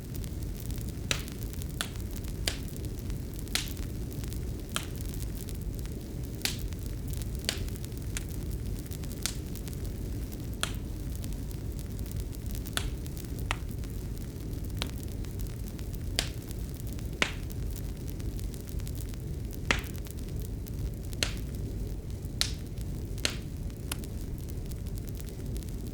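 Wood fire crackling: irregular sharp pops and snaps, one or two a second, over a steady low rumble.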